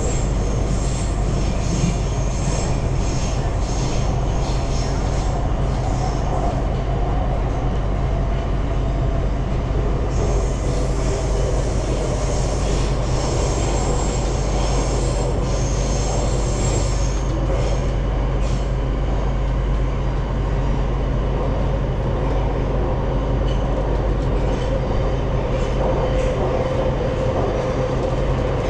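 Metro train on Budapest's M2 line running at speed between stations, heard from inside the car: a steady loud rumble with high-pitched wheel squeal coming and going, strongest from about 10 to 17 seconds in.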